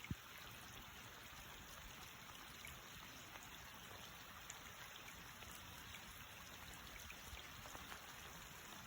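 Faint steady hiss of light rain, with scattered drops ticking.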